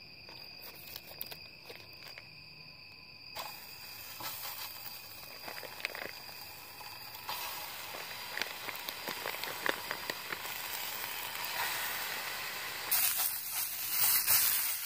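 Smoked sausages sizzling and crackling in a frying pan over an alcohol stove, beginning about three seconds in and growing louder toward the end. Before that, crickets trill steadily.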